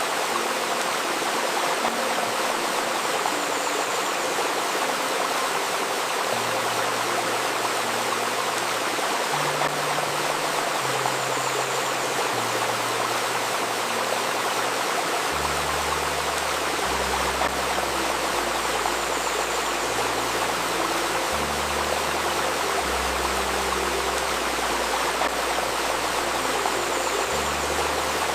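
A river babbling steadily over stones, with a faint steady healing tone layered in (a 528 Hz Solfeggio tone). Soft, slow ambient notes in the low register come in about six seconds in, changing every second or two, and deeper bass notes join about halfway through.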